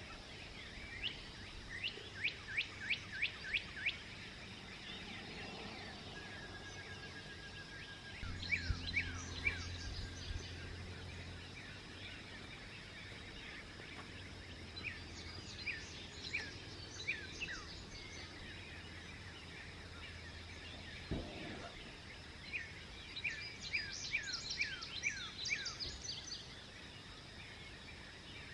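Songbirds singing at dawn: four phrases a few seconds apart, each a quick run of repeated descending notes. A low hum sits underneath through the middle stretch.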